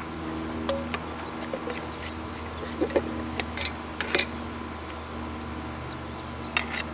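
Honeybees humming steadily around an opened hive, with scattered clicks and scrapes as frames and comb are handled. A short high chirp repeats about once a second behind them.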